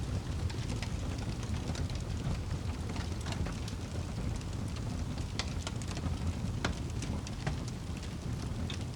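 Fire crackling: irregular sharp pops and snaps scattered over a steady low rumble of the flames.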